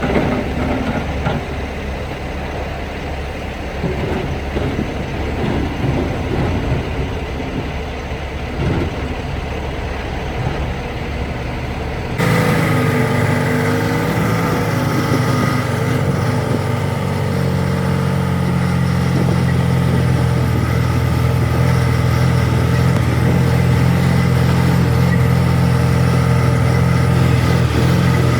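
Logging truck's diesel engine running steadily. About twelve seconds in the sound changes abruptly to a smoother, steadier engine hum with a strong deep tone.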